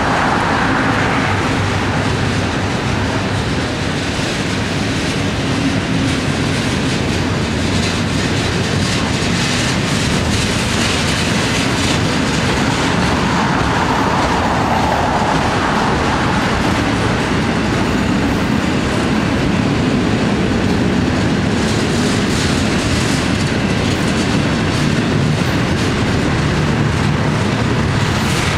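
Freight train cars rolling past: autorack cars, then double-stack container well cars, their steel wheels running steadily on the rails.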